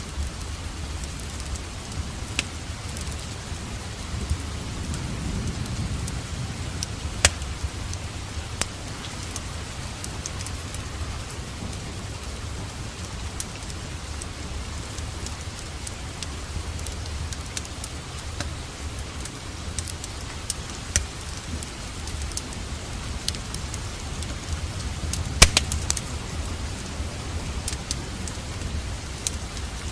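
Steady rain together with a crackling wood fire in a fireplace, with a few sharp pops from the fire, the loudest near the end.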